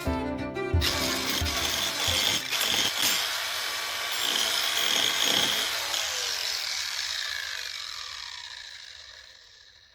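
Angle grinder working into the wood of a log, smoothing a saddle notch; it starts about a second in and fades steadily away over the last few seconds.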